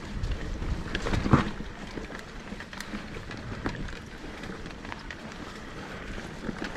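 Mountain bike rolling down a dirt trail: tyre noise with the bike's rattles and knocks, and one hard knock about a second and a half in.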